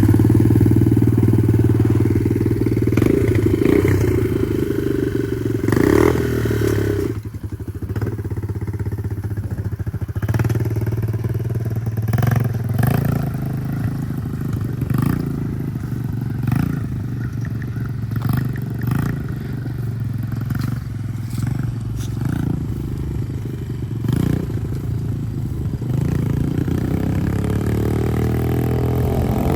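Dirt bike engine running through a long stretch, loudest for the first several seconds and then lower and steadier, with repeated clattering knocks. The engine pitch rises near the end as it is revved.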